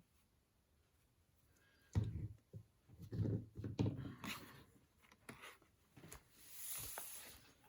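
Paper and a handmade journal being handled on a tabletop: a run of soft thumps and taps starting about two seconds in, a few light clicks, then a papery swish near the end.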